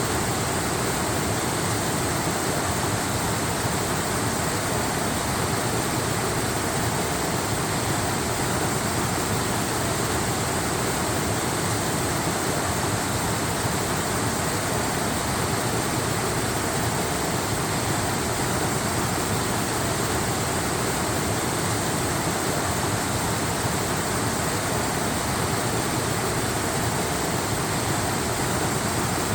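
Waterfall: a steady, even rush of falling water with no changes in it.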